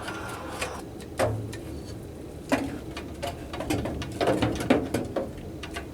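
Knocks, clicks and scraping as a new humidifier vapor pad and its frame are worked into the furnace humidifier's housing and pushed up into its recess. The handling gets busier near the end.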